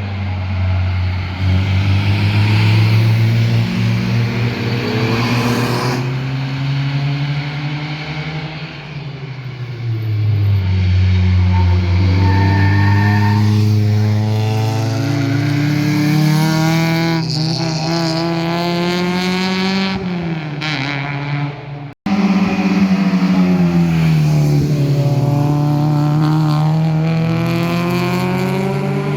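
Performance cars driving past one after another with loud exhausts, engines revving up and easing off so the pitch climbs and falls with each pass. In the middle one engine winds up steadily for several seconds before the pitch drops at a shift, and another car picks up with a falling-then-rising note about three-quarters of the way through.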